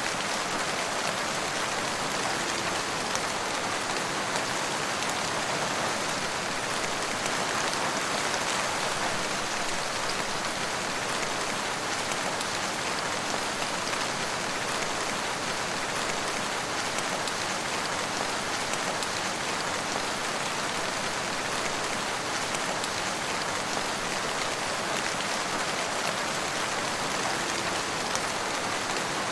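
Steady rain falling on hard surfaces: an even, unbroken hiss of drops with faint scattered patters.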